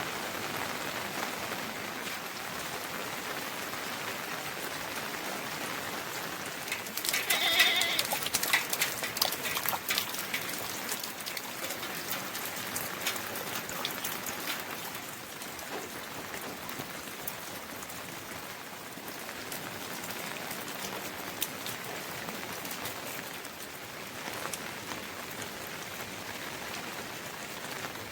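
Steady rain falling, with drops pattering on surfaces. About seven seconds in comes a short pitched call and a spell of louder, sharper drip and tap sounds, which fade back into the steady rain.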